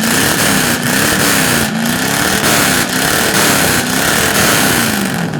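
Ford Maverick GT V8 engine being revved over and over, loud, its pitch rising and falling about once a second, until it drops away at the end.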